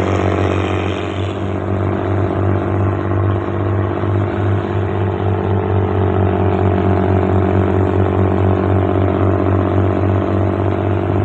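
Purse-seine fishing boat's inboard engine running steadily at constant speed: a deep, even hum with a fast regular throb.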